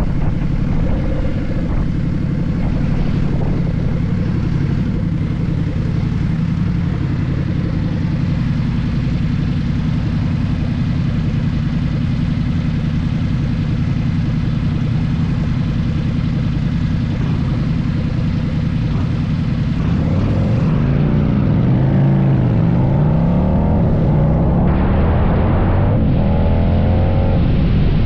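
Harley-Davidson V-twin motorcycle engine running at road speed, with steady wind rush. About twenty seconds in, its pitch starts sliding up and down repeatedly as the throttle and speed change.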